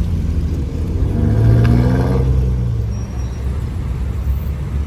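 Car engines rumbling at low revs. About a second in, one engine swells louder and its pitch rises and falls before it settles back into the general rumble.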